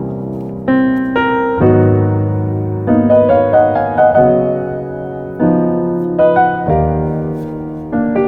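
Background piano music: gentle chords and melody notes that change about every second.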